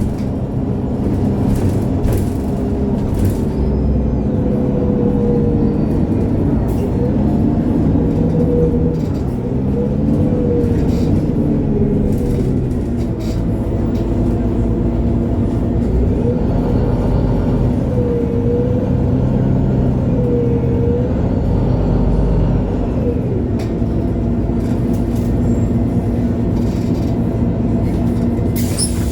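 MAN Lion's City G articulated city bus (MAN A23) on the move, heard from on board: its diesel engine runs steadily, its pitch rising and falling several times as the bus accelerates and shifts gear.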